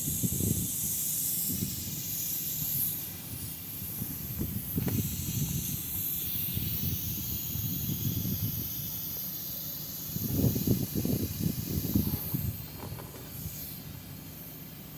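Steady high hiss of R-410A refrigerant gas flowing during the recharge of a split air conditioner, with uneven low rumbling bumps that are loudest about ten to twelve seconds in.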